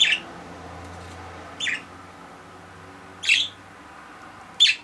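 Budgerigar giving sharp, chirping contact calls, four short calls about one and a half seconds apart, a pet budgie calling for its separated companion.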